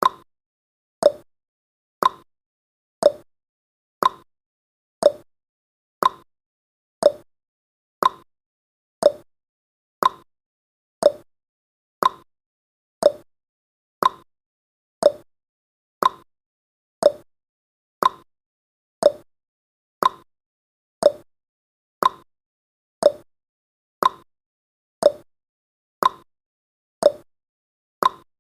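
Countdown timer's clock-tick sound effect, one short sharp tick every second, each dying away quickly.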